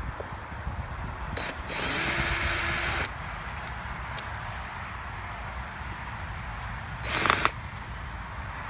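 A cordless drill/driver spinning in short bursts to back out screws from a plastic HVAC housing: a quick blip, then a run of about a second and a half with a steady motor whine, and another brief burst near the end.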